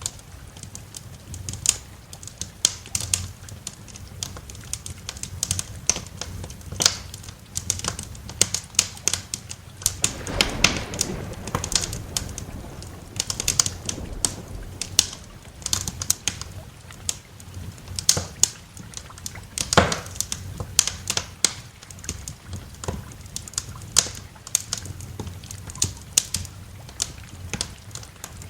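Wood fire crackling, with many irregular sharp pops and snaps over a steady low rumble. A brief, broader swell of sound comes about ten seconds in.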